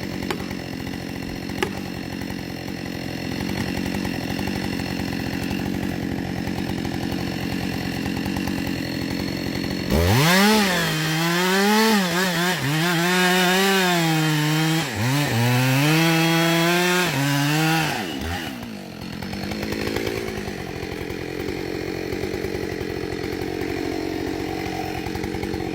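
Two-stroke chainsaw running steadily, then revved louder for about eight seconds, its pitch repeatedly dipping and recovering as it labours cutting through wood, before settling back to a lower, steadier run.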